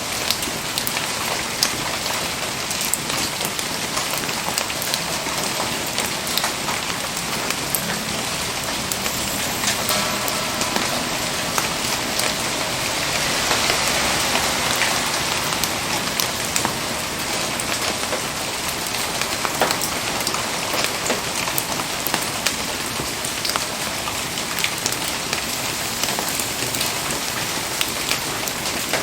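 Steady rain falling, with many sharp raindrop taps pattering on surfaces; it swells a little about halfway through.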